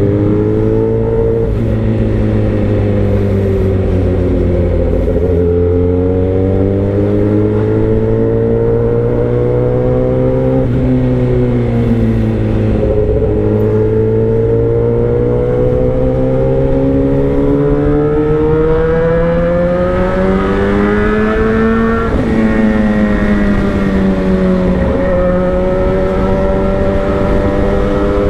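Motorcycle engine running with no muffler, only a bare exhaust pipe, while riding. The engine note climbs slowly and falls sharply several times, most clearly about 11 and 22 seconds in, as the bike accelerates and shifts gear.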